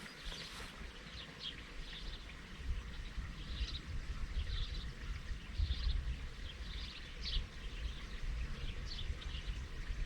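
Small birds chirping over and over in short high calls, with a low, uneven rumble that gets stronger a few seconds in.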